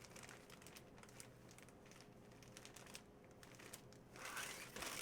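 Faint crinkling and rustling of plastic card packaging as trading cards are handled, with a louder rustle a little after four seconds in.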